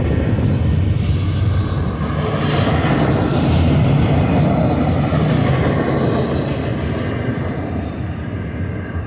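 Freight train passing with a steady rumble and rolling noise, loudest a few seconds in and easing off near the end.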